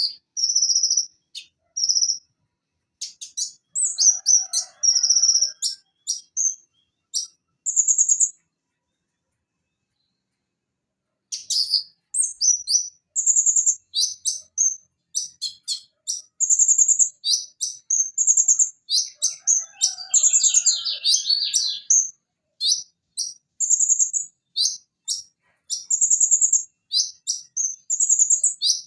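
Van Hasselt's sunbird (konin, Leptocoma sperata) singing in rapid high-pitched chirps, trills and short whistled notes, with a few lower warbled notes mixed in. The song stops for about three seconds a third of the way in, then resumes denser and faster.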